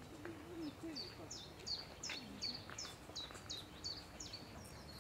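A songbird singing a quick run of about ten repeated high notes, each sliding sharply downward, about three a second.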